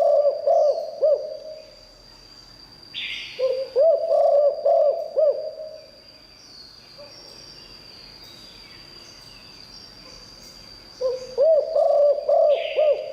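Spotted dove cooing: three phrases of short, rising-and-falling coo notes, one at the start, one about three and a half seconds in, and one near the end. A steady high-pitched whine runs behind them.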